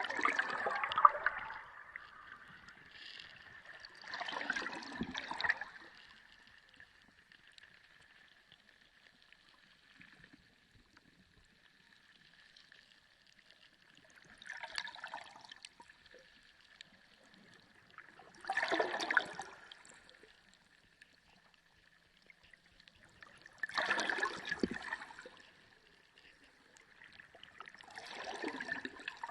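Underwater sea ambience: six bursts of water gurgling and rushing, each about a second long, with a longer lull in the middle. A faint steady high tone runs underneath.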